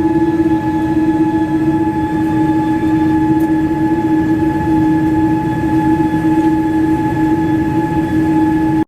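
Airliner cabin noise: a steady hum with several held tones over an even rush.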